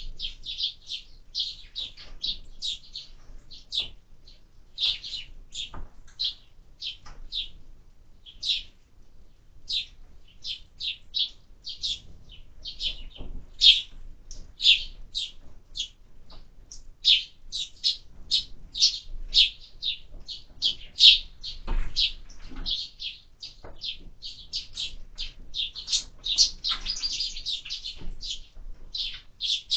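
Sparrows chirping: a dense, continuous run of short high chirps, several a second, with a few faint knocks among them.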